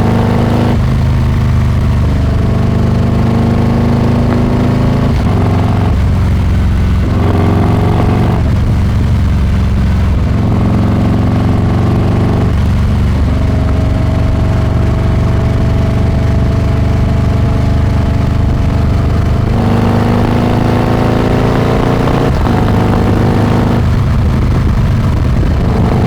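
Harley-Davidson Milwaukee-Eight 114 V-twin through a Rinehart exhaust, riding and accelerating up through the gears. The pitch climbs in each gear and drops at each of several shifts, with a longer steady stretch in the middle.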